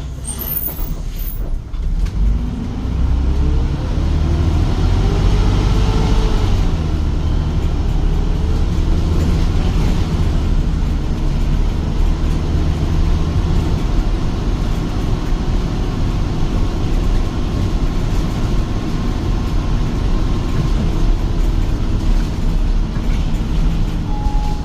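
Engine of a 2011 Hyundai New Super Aerocity low-floor city bus, running on CNG, pulling away: its pitch climbs for the first several seconds, climbs again after a gear change, then it runs on steadily with the low drone easing about halfway through. Heard from inside the bus.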